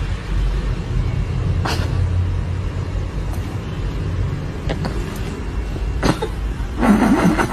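A steady low rumble, with a few short knocks scattered through it and a brief wavering, voice-like sound near the end.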